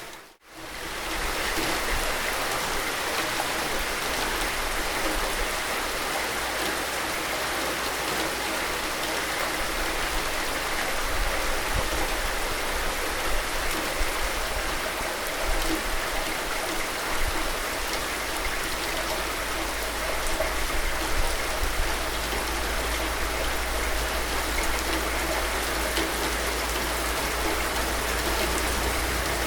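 Steady rain falling as an even hiss, with a few individual drops ticking through it. Right at the start the sound fades out for an instant and comes straight back up, like a splice in a looped recording.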